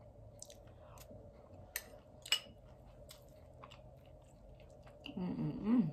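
A person chewing and smacking food close to the microphone: scattered short wet clicks, one louder about two seconds in.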